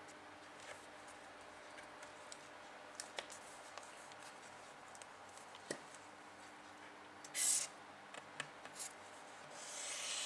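A pen drawing on paper: light taps and small scratches, one short loud stroke about seven seconds in and a longer rubbing stroke near the end.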